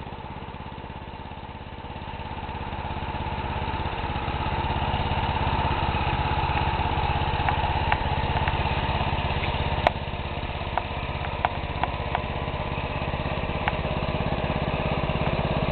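1980 Power King 1618 tractor's 18 hp Kohler K-361 single-cylinder engine running through a newly fitted upright muffler, growing louder over the first few seconds and then running steadily. A few light clicks come through in the middle.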